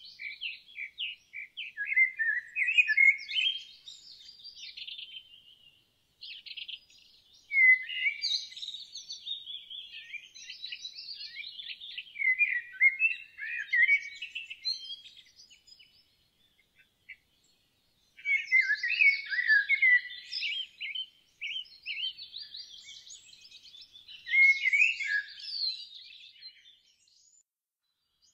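Songbirds chirping and singing in quick, high-pitched trilling phrases, with brief pauses about six seconds in and again around sixteen to eighteen seconds.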